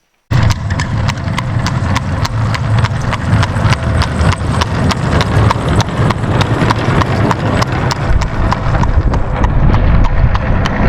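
Horse hooves clip-clopping in an even rhythm, about three to four strikes a second, over a low rumble. The sound starts abruptly.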